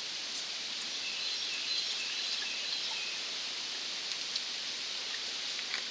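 Steady hiss of a camp stove's gas burner heating a pot of water to the boil, with a few faint high bird chirps.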